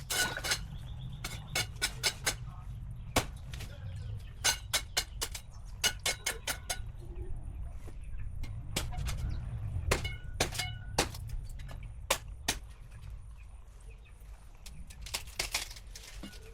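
Irregular sharp clicks and knocks, a few to several a second in clusters, over a steady low rumble.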